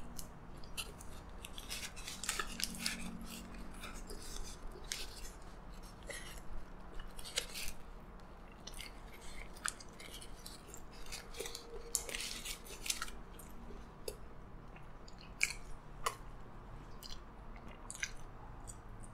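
A person chewing a mouthful of double cheeseburger with the mouth closed: many small wet smacks and clicks of the mouth, spread unevenly throughout. Near the end comes a sip from a soda can.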